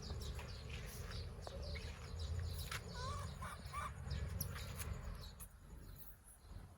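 Birds chirping with quick, short, high calls over a low background rumble; the calls thin out towards the end.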